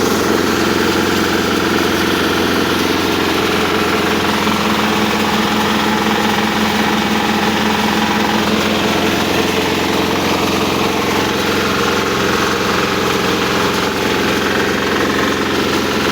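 10 hp diesel engine running steadily, driving a posho mill.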